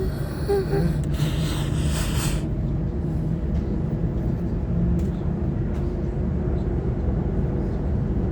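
Waratah electric multiple-unit train running, heard from inside the carriage: a steady low rumble of wheels and running gear with a faint motor hum, and a brief hiss about a second in.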